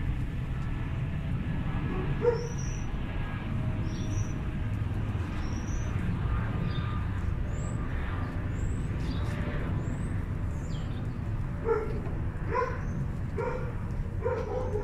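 A dog barking repeatedly, about half a dozen barks in the last few seconds, over a steady low rumble. Short high chirps come about once a second before the barking starts.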